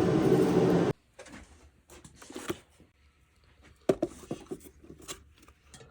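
A loud, steady sound that cuts off abruptly about a second in. It is followed by scattered light clicks and knocks of subwoofer parts being handled.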